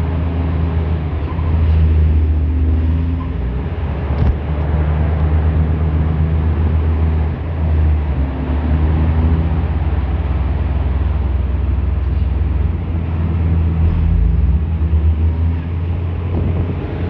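Passenger train running along the track, heard from inside a carriage: a steady low rumble and rattle, with a single sharp knock about four seconds in.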